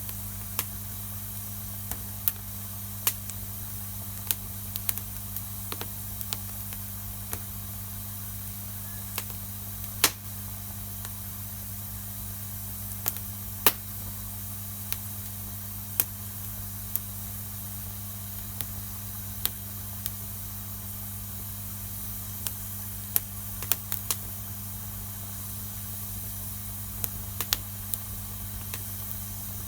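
Wood fire crackling: irregular sharp pops and snaps, a few loud ones about ten and fourteen seconds in, over a steady hiss and a low steady hum.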